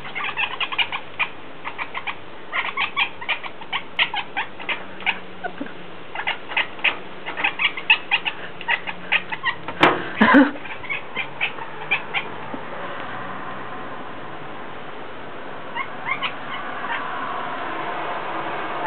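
A cat chattering at birds: runs of short, quick clicking chirps, with one longer, louder call about ten seconds in. The chattering then thins out to a few chirps.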